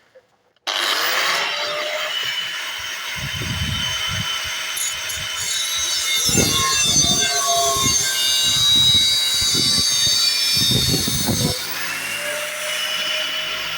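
Angle grinder spinning up under a second in, then cutting through a single-wall steel flue pipe with a steady high-pitched whine and rasp; the load eases off about 11.5 s in as the cut finishes.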